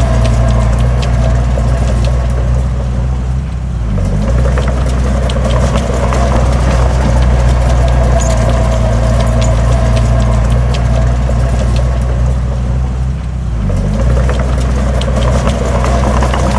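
Heavy diesel engine of earthmoving machinery (bulldozer or dump truck) running steadily under load, easing off briefly twice, with scattered clicks and rattles over it.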